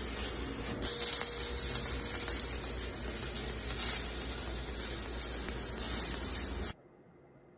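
Electric arc welding: the arc's steady crackling sizzle, which stops suddenly near the end.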